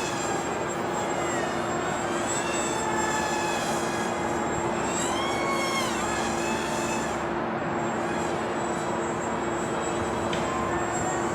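Twin Emax 1106 8000kv brushless motors with 3-inch props on a small RC flying wing, whining in flight; the high whine rises and falls in pitch several times.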